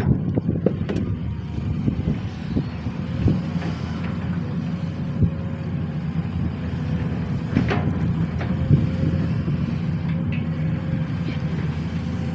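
Sany SY215C excavator's diesel engine running steadily, with occasional short knocks and clanks from the working machine.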